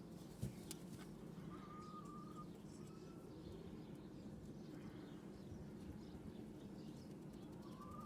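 Faint, short whistled bird calls over a steady low background hum, with a single knock about half a second in.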